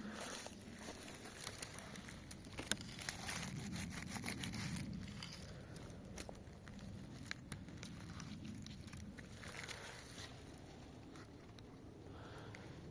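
Rustling and crackling with many scattered sharp clicks, densest and loudest a few seconds in, then thinning out.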